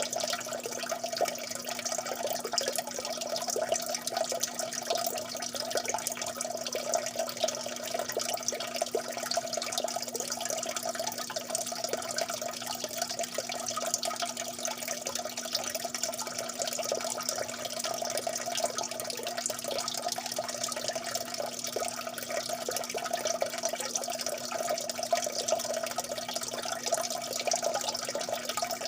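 Water dripping and trickling steadily, a dense patter of many small drops with no pauses.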